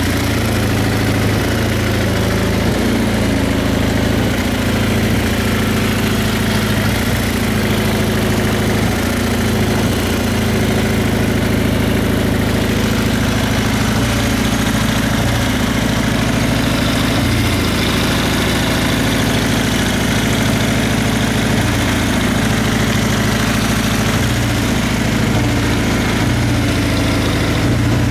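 Kawasaki Z750FX-III (KZ750E) air-cooled inline-four engine idling steadily.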